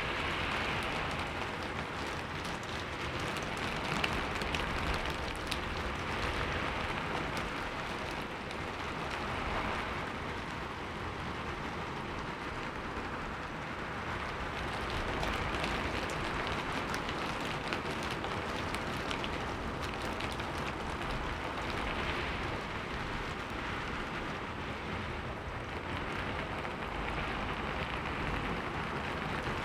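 Heavy rain falling steadily: a dense, even hiss of rain with scattered drop ticks, swelling and easing gently every few seconds.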